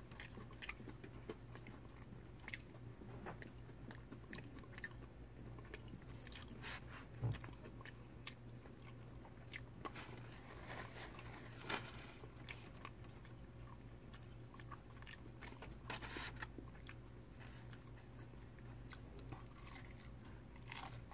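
Close-up chewing and crunching of crispy battered fried fish, with sharp crunches from bites scattered irregularly throughout; the loudest come about seven and twelve seconds in.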